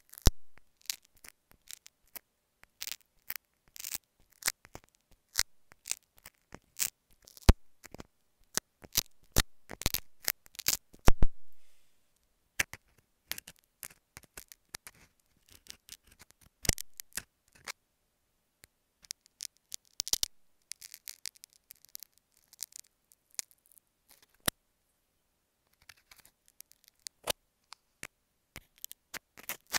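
Sharp clicks and scratching from tools poked and dragged against an earphone microphone up close. For about the first dozen seconds they are dense pushpin pricks; after that come sparser clicks and softer scraping from a metal scaler.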